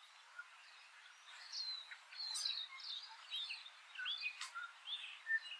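Eastern rosellas and other small birds calling, with many short chirps and whistled notes overlapping over a faint outdoor hiss. The notes are busiest from about a second and a half in.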